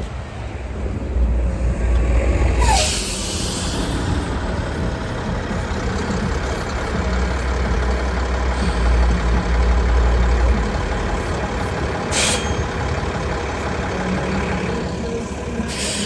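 Diesel transit bus running with a low engine rumble and several air-brake hisses. A short falling squeal comes just before a long hiss about three seconds in, and shorter hisses follow near twelve seconds and at the end.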